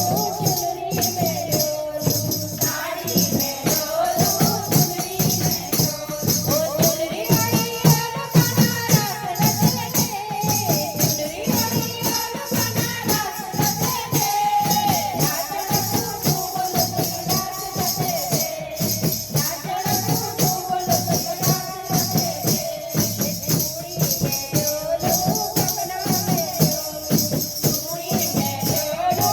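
A devotional Hindu bhajan to the goddess Mata Rani, with a sung melody over rattling percussion that keeps a steady beat.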